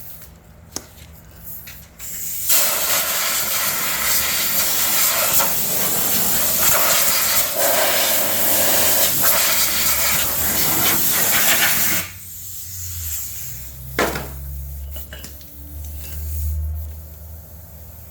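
A hard, steady hiss of compressed air blowing for about nine seconds, starting and stopping abruptly, followed about two seconds later by a single sharp knock.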